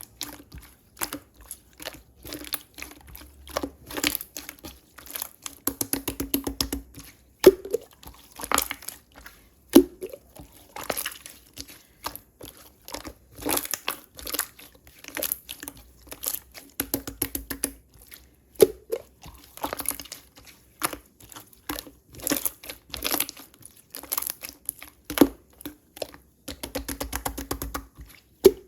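Close-up handling sounds: irregular crinkling and crunching with many sharp clicks, and a few short stretches of fast buzzing rattle.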